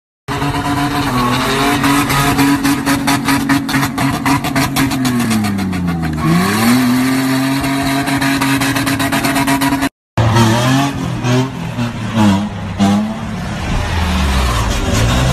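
Toyota Land Cruiser engine revving hard and held high while drifting, dipping and climbing back about six seconds in. After a brief cut about ten seconds in, a second engine revs up and down.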